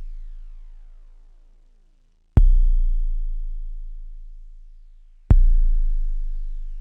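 12-bit SP-1200 sampler playing a deep kick drum sample, struck twice, about a second in? no: struck about 2.4 s and 5.3 s in, each hit a sharp attack into a long, slowly fading low tone, with the tail of an earlier hit fading at the start.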